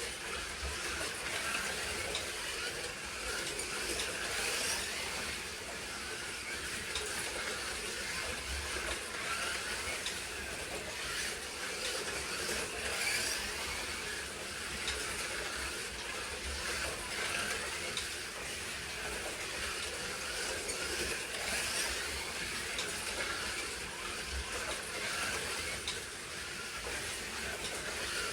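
Slot cars lapping a track: a steady whirring hiss of their small electric motors and tyres, with occasional faint clicks.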